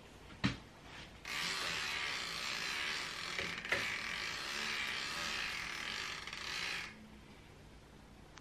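A sharp click, then a steady fast buzz for about five and a half seconds from a bicycle rear hub's DT Swiss ratchet freehub freewheeling as the wheel spins, with another click partway through.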